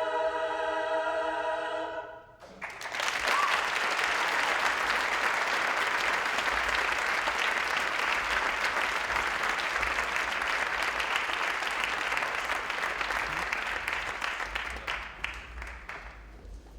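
A choir holds a final chord and cuts off about two seconds in; then the audience applauds, the clapping dying away near the end.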